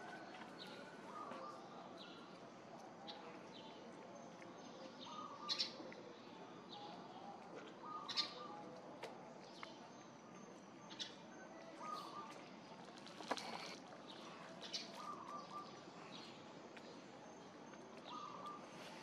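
Faint outdoor ambience with birds chirping: short calls repeat every second or two, with a few sharper chirps standing out.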